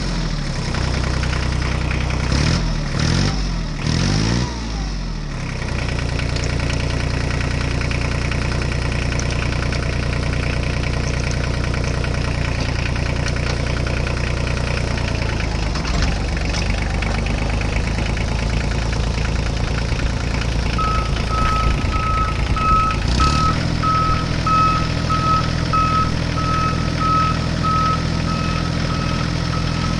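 Heavy vehicle engine idling steadily, revved up and down a few times a few seconds in. About two-thirds of the way in a reversing beeper starts, sounding evenly spaced beeps.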